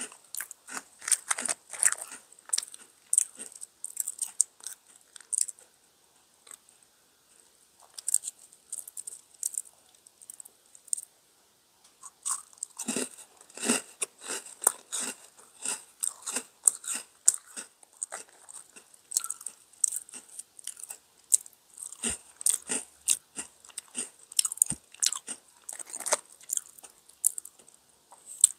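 A person chewing crunchy DunkAroos cookies with the mouth closed: quick crisp crunches, easing off briefly twice before picking up again.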